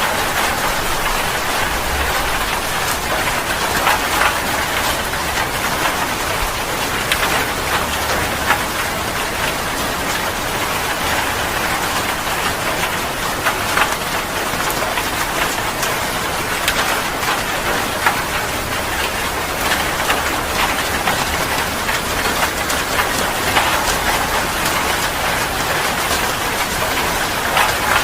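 Heavy rain falling steadily, with many small drops spattering on a surface and a faint low rumble underneath.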